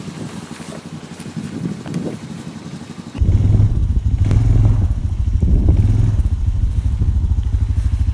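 Honda TRX250 quad's engine running. About three seconds in, a loud low rumble starts suddenly and carries on steadily to the end.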